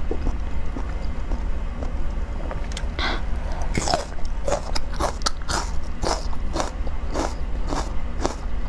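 Raw red onion being bitten and chewed close to the microphone: from about three seconds in, crisp crunches come about twice a second. A steady low hum sits underneath.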